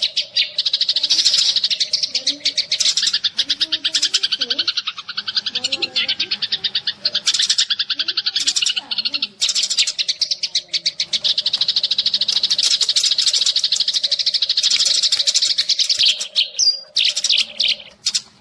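Sparrows chattering: a dense stream of rapid, high chirps that runs almost without a break, with a few short lulls. This is a decoy sparrow call recording used to lure sparrows for trapping.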